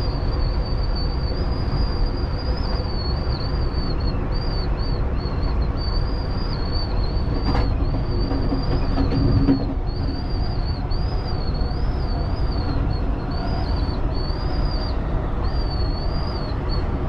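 Amtrak passenger train running, heard from inside the rear car: a steady low rumble of wheels on rails with a faint wavering high whine throughout. A sharp click comes about seven and a half seconds in.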